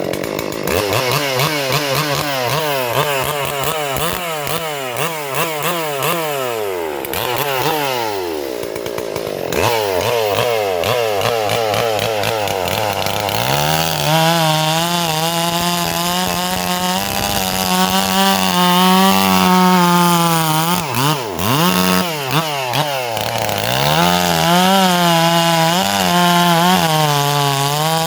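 Stihl MS440-clone two-stroke chainsaw running and cutting wood. The revs rise and fall at first, drop to idle about a third of the way in, then hold high for the rest, dipping briefly a couple of times.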